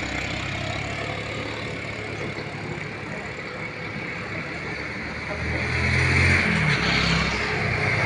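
Road traffic: vehicle engines running over a steady rush of road noise, with a heavier engine growing louder and shifting in pitch about five and a half seconds in.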